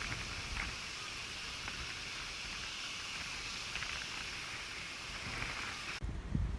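Steady rushing noise with a few faint ticks, which cuts off abruptly near the end.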